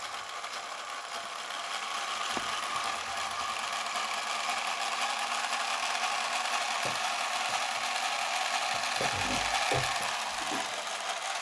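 Small electric motor of a Lego twin-rotor helicopter model running steadily, whirring through its plastic gears as it spins the rotors. A few low knocks come in the second half.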